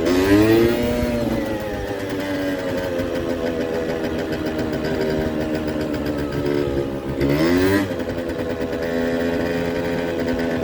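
Kymco Super Fever ZX 50cc two-stroke scooter engine under way, revving up sharply at the start and again about seven seconds in, holding a steady, slowly sinking note in between. The mid-range doesn't pull and it runs unevenly, which the rider takes for fuel or carburettor trouble.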